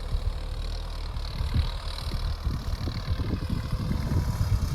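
Sonalika Tiger 65 DI CRDI tractor's common-rail diesel engine running steadily.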